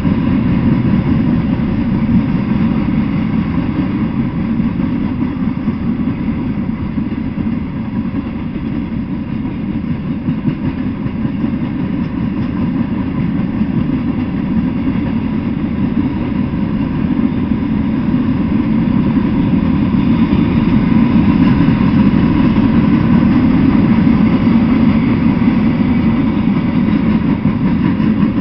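Long freight train of open-top hopper cars rolling steadily past: a continuous low rumble of steel wheels on the rails, growing a little louder in the last third.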